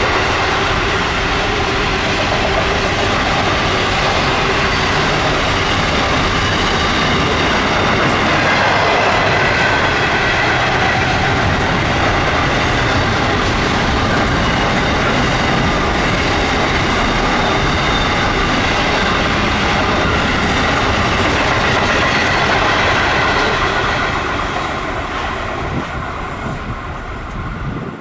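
Container wagons of an intermodal freight train rolling past at speed: steady loud wheel-on-rail noise with a few high ringing tones over it. It falls away over the last few seconds and then cuts off.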